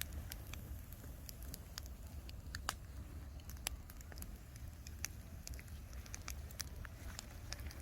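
Bonfire of wood scraps and bamboo crackling, with scattered sharp pops at irregular intervals.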